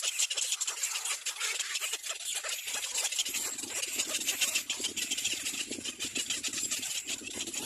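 Busy, dense high-pitched chattering and calling from a nesting colony of little black cormorants, with a lower, rougher calling joining in about three seconds in.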